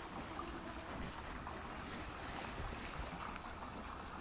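Steady low rumble and hiss of outdoor background noise, with a faint high chirp about two seconds in.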